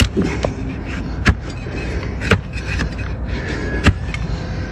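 Donkey hoof being trimmed: four sharp cracks spaced a second or so apart as the tool cuts into the hoof horn, over a steady background noise.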